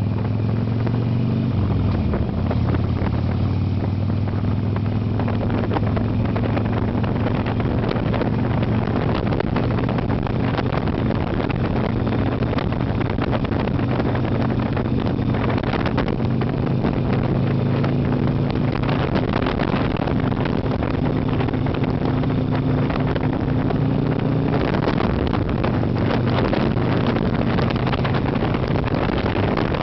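Harley-Davidson Sportster 883's air-cooled V-twin engine running steadily at road speed, its pitch shifting a little now and then, under heavy wind noise buffeting the microphone.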